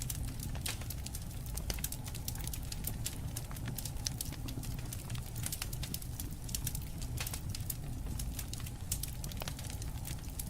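Campfire crackling: frequent irregular sharp pops and snaps over a low steady rumble.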